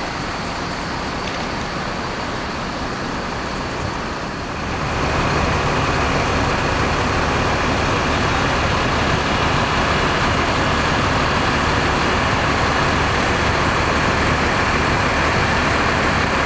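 Road vehicle noise with a heavy engine's low hum, growing louder about four and a half seconds in and then holding steady.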